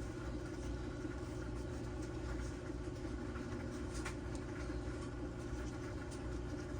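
Steady machine hum in the background, with a few faint clicks of parts being handled, the clearest about four seconds in.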